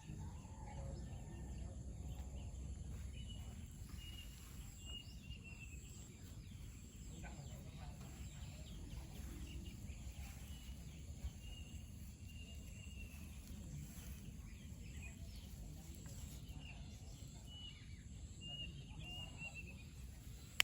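Birds singing, faint: short high whistled notes in repeated phrases, over a steady low rumble.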